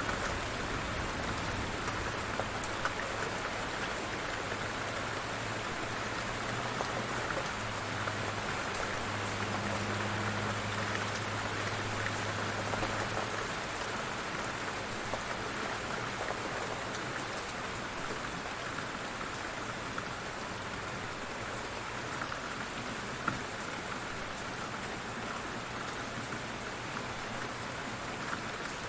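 Light rain falling steadily, with fine scattered drop ticks in an even patter. A faint low hum underlies the first half and fades out about halfway through.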